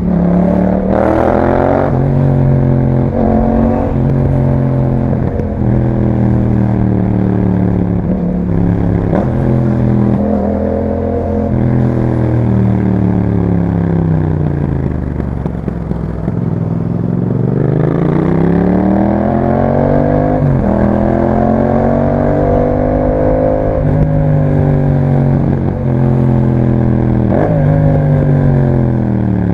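Yamaha MT-07's 689 cc parallel-twin engine breathing through an Akrapovič exhaust, pulling up through the gears with a sharp dip in pitch at each upshift. About halfway it eases off and the pitch falls away, then it accelerates through the gears again.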